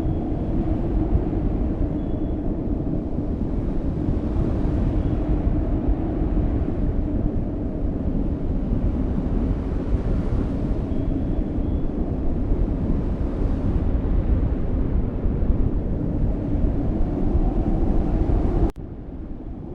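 Strong cyclone wind rumbling and buffeting the microphone in a steady, surging roar, dropping abruptly to a quieter level near the end.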